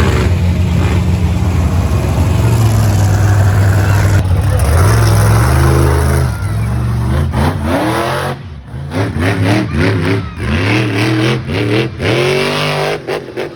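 Monster truck engine running loud and steady, then revved again and again from about halfway on, its pitch climbing and dropping with each rev.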